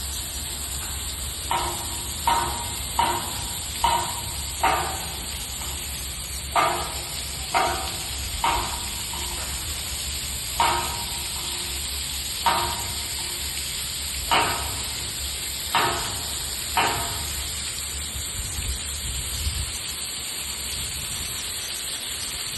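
Rain curtain running: water falling steadily with a continuous hiss. About a dozen sharp knocks sound over it at irregular intervals, each with a short pitched ring, and stop about three-quarters of the way through.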